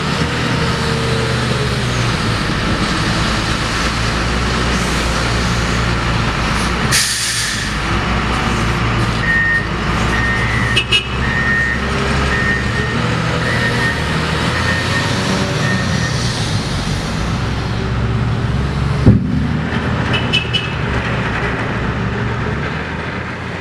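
Heavy diesel trucks and loading equipment running steadily, with a short air-brake hiss about seven seconds in, intermittent reversing beeps in the middle, and a sharp knock near the end.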